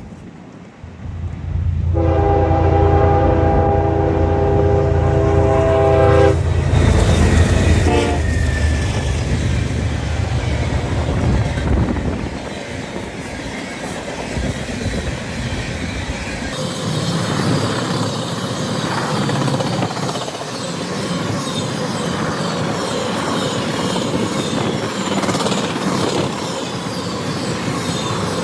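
Diesel freight locomotive horn sounding a multi-note chord for about four seconds as the locomotives pass with a heavy engine rumble, then the train's cars rolling by in a steady clatter of wheels on rail.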